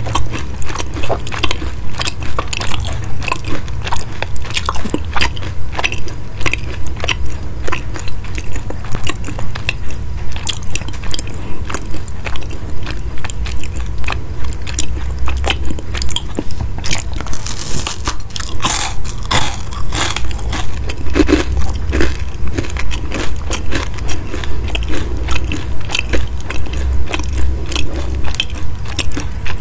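Close-miked chewing of crispy chicken cutlets: a steady rhythm of about two chews a second, each with a crackling crunch. A few louder crunches come about two-thirds of the way through, and a steady low hum runs underneath.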